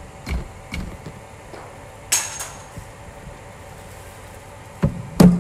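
Knocks and thuds of a cricket ball in a bowling-machine batting session, with a sharp crack about two seconds in and two heavy thuds near the end.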